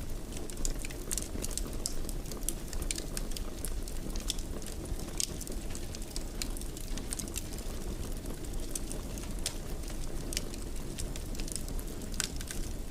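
Wood fire burning in a fireplace: frequent irregular crackles and pops over a steady low rumble of flame.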